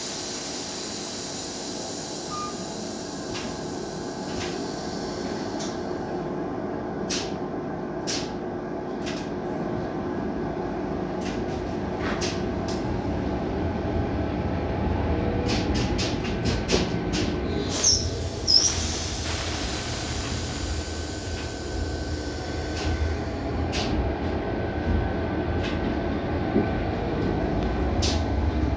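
Cabin sound of an ASD BDe 4/4 electric railcar pulling out of a station: a steady running rumble that grows as the train gathers speed, with a high hiss fading over the first few seconds. Sharp clicks and knocks from the wheels over rail joints and points, and a brief wheel squeal about eighteen seconds in.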